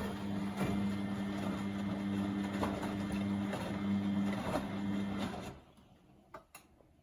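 Beko WMB71642W washing machine's drum motor turning the drum in the wash phase, a steady hum with soft knocks from the tumbling load, stopping about five and a half seconds in as the drum pauses between tumbles. A couple of sharp clicks follow in the pause.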